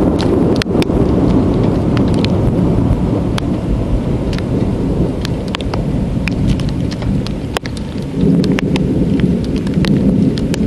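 Thunder rumbling over heavy rain, the rumble swelling again near the end, with raindrops ticking sharply close by.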